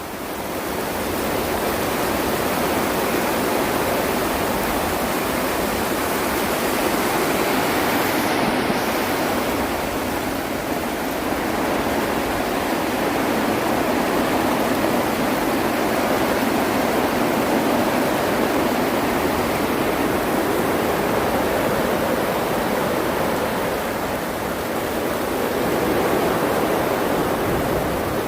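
Heavy rain pouring down in a steady, loud rush of noise during a rainstorm.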